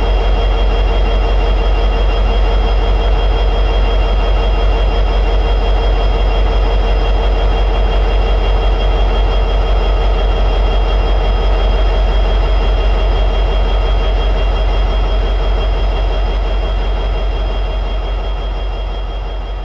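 EMD 710G3B two-stroke diesel prime mover of an SD60E locomotive running steadily at high idle, with a steady high whine over the engine's deep running sound. The sound fades out over the last few seconds.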